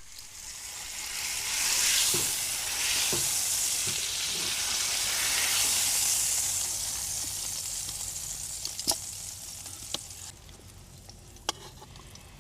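Meat frying in a hot pan, a loud sizzle that swells over the first couple of seconds and dies down after about ten seconds, with a few sharp clicks near the end.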